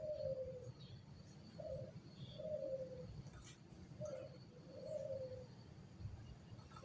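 A dove cooing faintly in repeated phrases, each a short low note followed by a longer, slightly falling coo, roughly every two seconds. There are a few faint high bird chirps as well.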